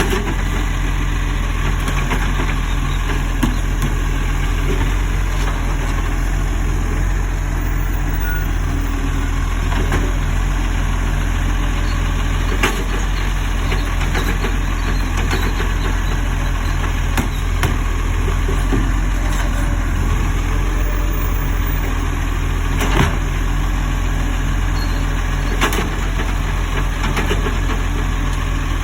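Garbage truck's diesel engine running steadily, with a few short knocks over it.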